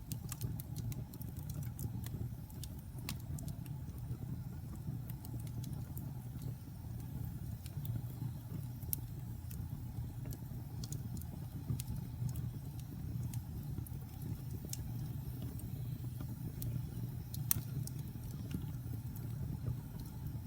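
Wood fire burning in a fireplace: a steady low rumble of flame with scattered sharp crackles and pops, a few of them louder.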